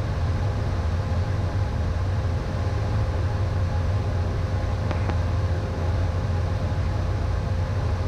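Steady cockpit noise of a Beechcraft Premier I jet in flight: a low rumble of airflow and its twin turbofan engines, with a faint steady hum of a few tones over it. A soft click comes about five seconds in.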